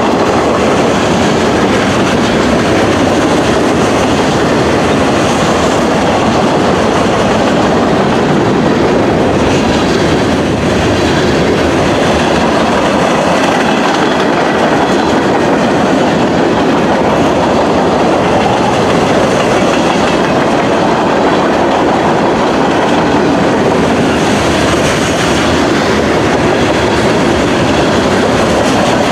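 Loud, steady sound of a long freight train's cars rolling past, steel wheels running on the rails.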